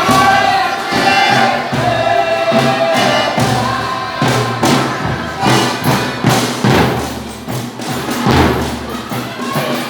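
Folia de Reis folk group singing together in several voices with a drum beating. The held singing gives way to louder, spaced drum strokes about four seconds in.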